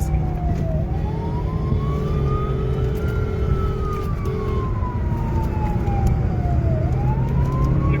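Police car siren on a slow wail, its pitch climbing and falling once over about six seconds and starting to climb again near the end, over steady vehicle engine and road noise.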